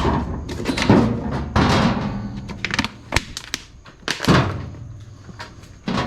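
A run of irregular heavy knocks and clanks from sheet-metal car body panels being handled and knocked into place. Each hit rings out briefly, and the hits are spaced unevenly, some closer together and some alone.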